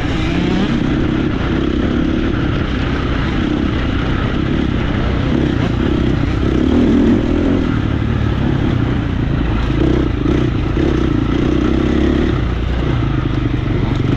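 Motocross bike engine running loud and continuous as the bike is ridden round the track, the engine note swelling and easing with the throttle, strongest about halfway through and again near the end.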